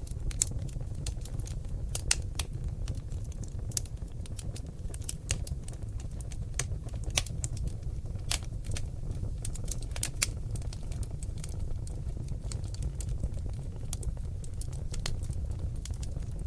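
Oak log fire in a fireplace crackling: irregular sharp pops and snaps, a few louder than the rest, over a steady low rumble of the flames.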